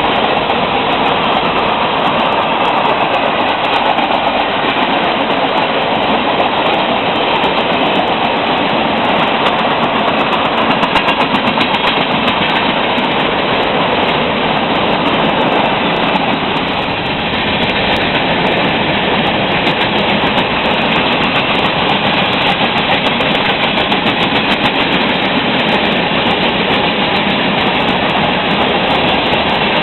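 Freight train cars rolling past on the rails, a steady, continuous noise of wheels on track.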